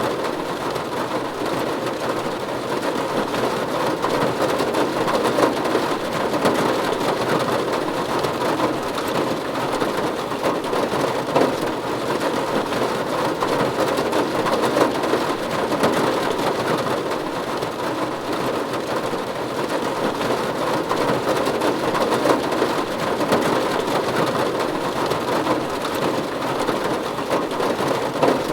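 Steady rain falling on a roof: a dense, even patter of many drops.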